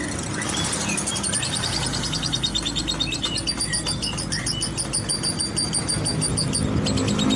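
Lovebird chattering in a long, fast run of high, repeated chirps that becomes a steady rapid trill for the last few seconds.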